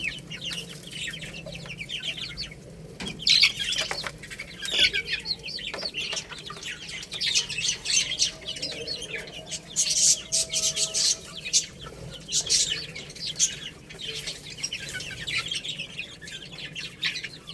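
A group of baby chicks peeping in rapid high-pitched chirps, with a few sharp taps mixed in.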